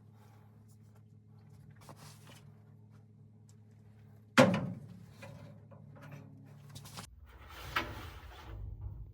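A steady low hum with one loud sharp knock a little over four seconds in, then smaller knocks and rustling. The hum cuts off about seven seconds in and a low rumble follows.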